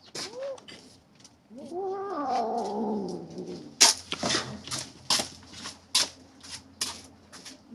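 A kitten gives a short call, then a long, wavering growling yowl, the sound of a kitten guarding its prey against the other kittens. A run of sharp clicks follows in the second half.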